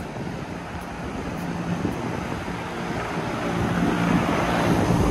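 Rooftop air-conditioning equipment running: a steady rushing whoosh with a low hum underneath, growing louder towards the end.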